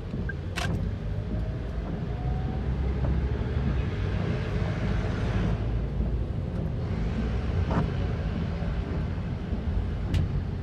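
Busy road traffic in the rain: a steady low rumble of engines, with tyre hiss on the wet road swelling as a vehicle passes about halfway through.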